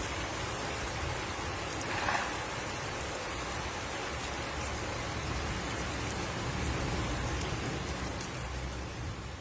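Heavy rain falling steadily, with a low rumble underneath and a short louder patch about two seconds in.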